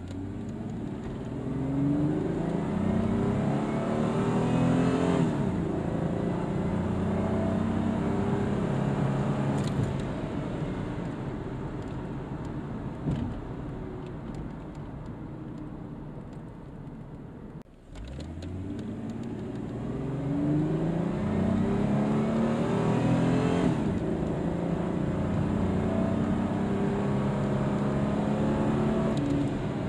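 2002 Ford Mustang's 3.8-litre V6 with Pacesetter shorty headers, heard from inside the cabin, accelerating hard from a standstill to 60 mph. The engine note climbs steeply to an upshift about five seconds in, pulls on rising, then eases off. After a cut near the middle, a second full-throttle run climbs and shifts the same way.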